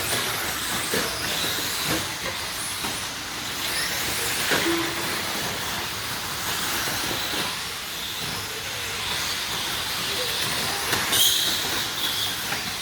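Several electric RC trucks with 13.5-turn brushless motors racing: a steady hiss of motors and tyres with whines that rise and fall as the trucks speed up and brake, and a louder whine about 11 seconds in.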